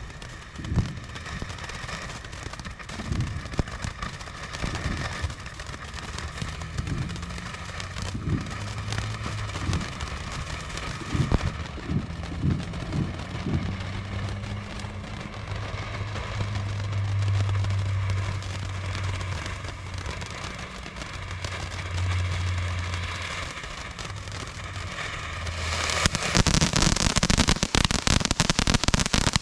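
A low steady hum with scattered dull thumps, then, about 26 seconds in, Magenta Coral fountain firework erupts into loud, continuous hissing and crackling as it sprays.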